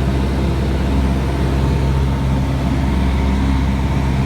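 Cessna 180's six-cylinder piston engine and propeller droning steadily in cruise flight.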